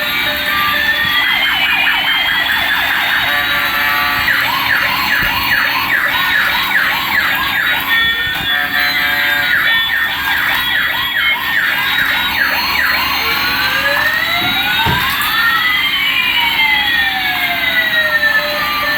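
Electronic police-style siren from a toy police car. Long rising and falling wails, some overlapping, give way in the middle to a fast repeated yelp, then the wails return.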